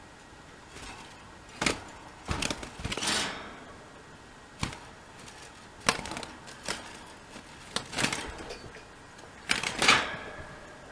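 Two doves fighting over dominance: irregular sharp slaps and clatters, some single and some in quick clusters, about a dozen in all.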